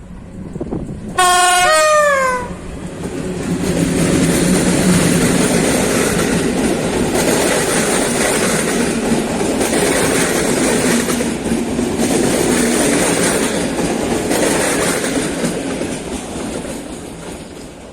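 A train's horn sounds once for about a second, its pitch dropping as it goes by. The train then passes close by with wheels clattering over rail joints, loud for several seconds and fading away near the end.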